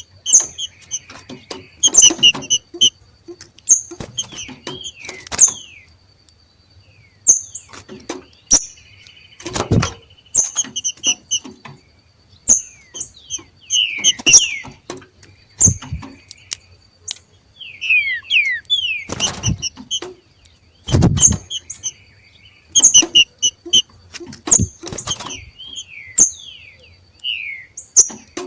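Two green-winged saltators giving their short, sharp 'macheado' calls in irregular clusters every second or two, some notes sliding downward, mixed with sharp clicks.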